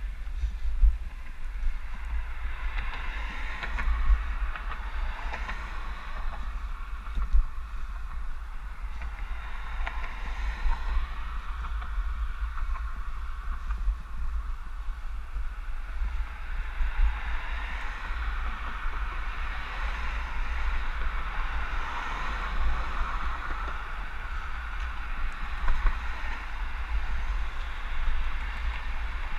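Wind buffeting a bike-mounted GoPro's microphone while riding, a steady low rumble with a rushing hiss over it and a few brief thumps.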